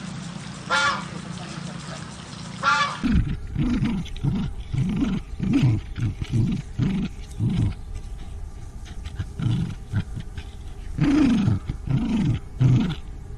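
A few goose honks, then, about three seconds in, a lion's deep roaring grunts, about two a second, pausing briefly before a second run.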